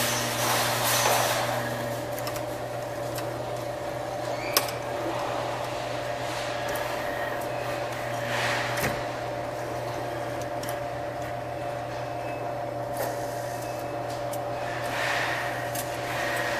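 Arcade machine noise: a steady electrical hum under a noisy din, with scattered clicks and one sharp click about four and a half seconds in.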